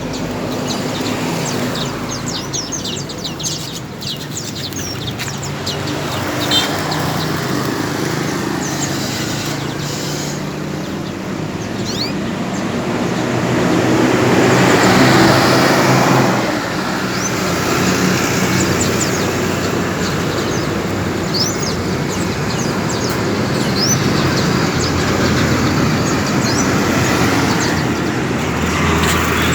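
Caged canaries chirping, with many short, high, rising calls scattered throughout, over a steady background of traffic noise that swells loudest about fifteen seconds in.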